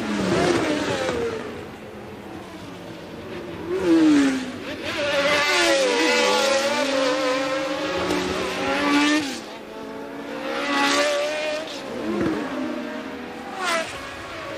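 1982 Formula One race cars passing one after another at racing speed, each engine's pitch dropping as it goes by, with several cars close together in the middle.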